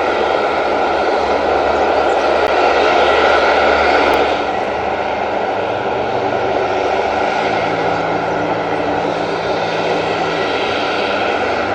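KC-130 transport aircraft's turboprop engines running steadily, a little louder for the first four seconds and then easing slightly.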